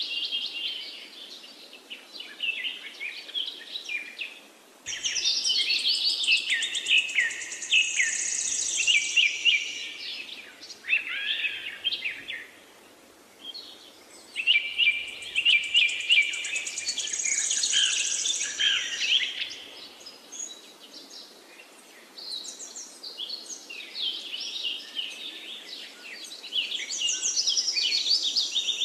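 A songbird singing high, varied phrases of rapid notes and trills, each a few seconds long with short pauses between, over a faint steady background hum.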